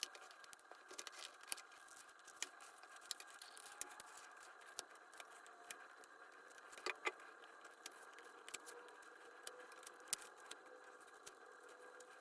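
Faint, irregular clicks and taps of hands working on a small leather baseball glove during its cleaning and re-lacing, over a faint steady hum.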